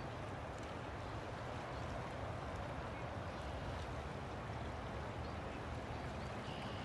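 River water flowing: a steady rushing with a low rumble underneath.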